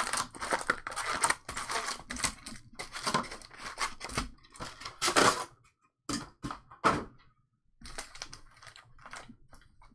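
2021 Topps Stadium Club baseball cards being handled and flipped through one at a time: a run of quick snaps, slides and rustles of card stock, with a brief lull about six to seven seconds in.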